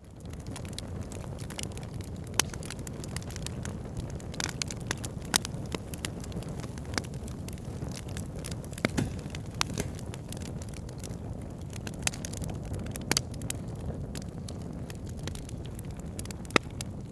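Wood fire burning in a fireplace: a steady low rumble with frequent sharp crackles and pops, a few of them louder snaps.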